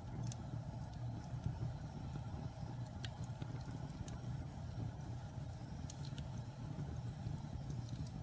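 Wood fire burning in a fireplace: a steady low rumble of flames with scattered sharp crackles and pops of burning logs.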